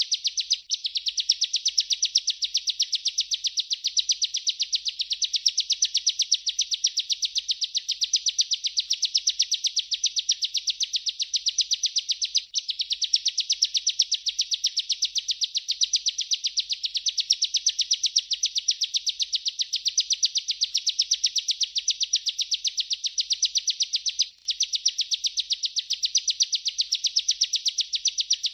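Bar-winged prinia (ciblek) singing its long rolling trill: a fast, even run of high chirping notes, broken only by very short gaps near the start, in the middle and near the end.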